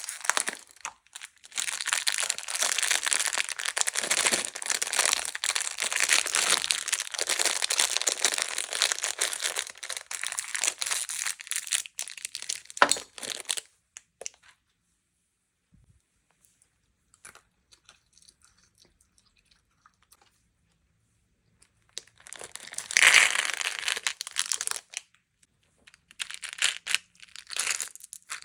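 Plastic packaging crinkled and torn open by hand, close up. There is a long stretch of continuous crinkling, then several seconds of near quiet with a few faint taps, then two shorter bursts of crinkling near the end.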